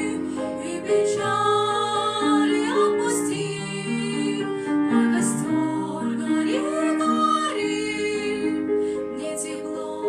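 Young girls singing a song with grand piano accompaniment.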